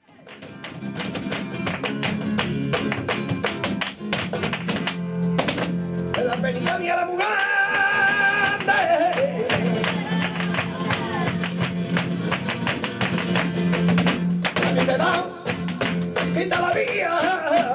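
Flamenco guitar playing alegrías with many sharp strummed strokes, joined about seven seconds in by a singer's long held opening note, with wavering sung lines again near the end.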